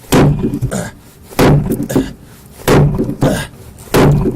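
Adze chopping into the pine hull of a dugout canoe: four hard strokes in a steady rhythm about every 1.3 seconds, each a sharp thunk followed by a lighter knock.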